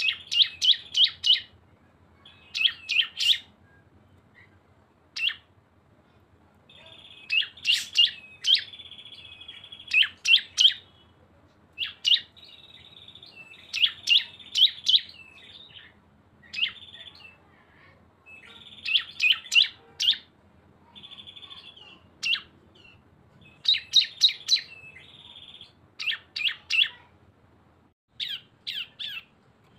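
Prinia (cisem, a ciblek type) singing in repeated bursts: a fast buzzy trill runs into quick, sharp chip notes, the rattling 'ngebren' song used as masteran to train caged birds, with a bout every couple of seconds.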